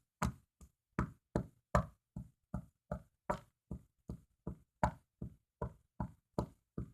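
Steady rhythmic knocking on a hard surface, about two and a half knocks a second, keeping the song's beat.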